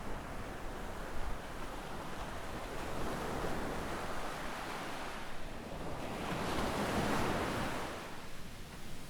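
Small sea waves breaking on a sandy beach and washing up the shore. The surf swells twice, the larger wave rising about two-thirds of the way through and then falling away near the end.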